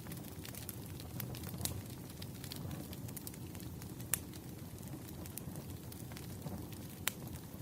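Wood fire crackling: irregular sharp pops and snaps over a steady low rumble, with two louder pops about four and seven seconds in.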